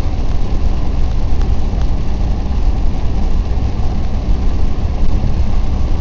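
Car driving in rain, heard from inside the cabin: a steady low rumble of road and engine under an even hiss of rain and wet tyres.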